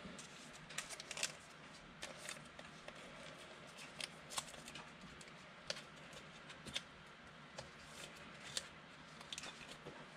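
Trading cards being handled and flipped through one by one: irregular light clicks and rustles of card against card, a few a second.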